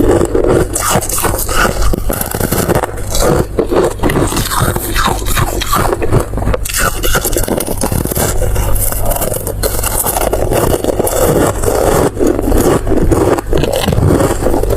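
Close-miked eating sounds: dense, continuous crunching and scraping from chewing and working through the food, with no pauses.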